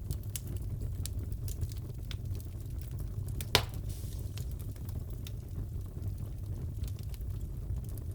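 Wood fire crackling in a fireplace: a steady low rumble under scattered small pops, with one louder pop about three and a half seconds in.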